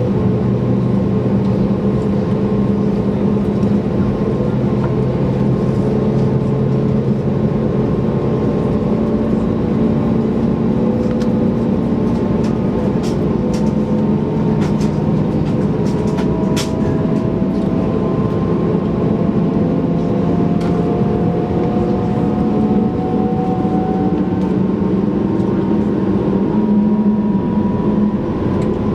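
Airbus A321neoLR engines heard from inside the cabin: a steady drone holding several even tones. Around the middle, a couple of the higher tones slowly rise in pitch, and there are a few light clicks.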